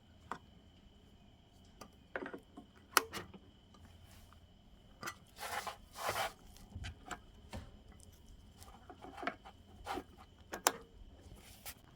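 Objects being handled: scattered clicks and knocks, with a brief rustling about five to six seconds in, over a faint steady high-pitched tone.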